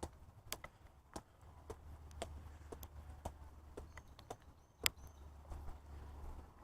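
Footsteps climbing a flight of stairs, about two steps a second, one step near five seconds in landing harder than the rest.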